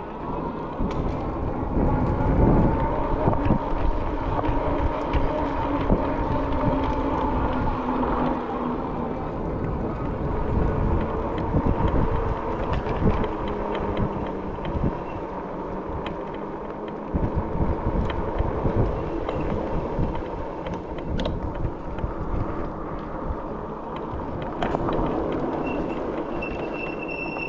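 Riding an electric bike along a campground road: wind rushing over the microphone and tyre noise, with a faint tone that slowly drops in pitch over the first several seconds.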